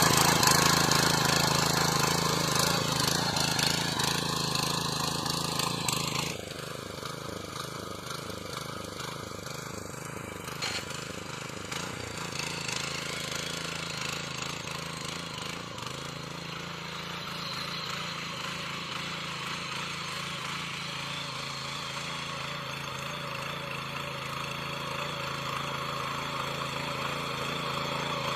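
Power weeder (mini tiller) engine running steadily while tilling. It is loud at first, then drops suddenly to a lower level about six seconds in and runs on steadily.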